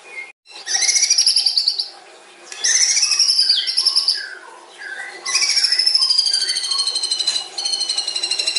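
White-rumped shama singing: three long phrases of whistled, gliding notes with short pauses between them. The last phrase runs into a fast trill of rapidly repeated notes.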